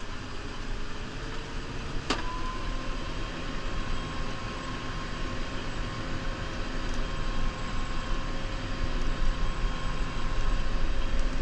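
The four-cylinder diesel engine of a New Holland Powerstar 75 tractor running steadily and growing a little louder toward the end. There is a sharp click about two seconds in, after which a steady whine rides over the engine.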